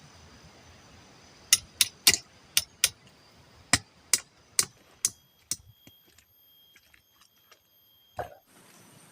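A run of about ten sharp knocks, irregularly spaced over a few seconds, then a few fainter taps and one duller thud near the end.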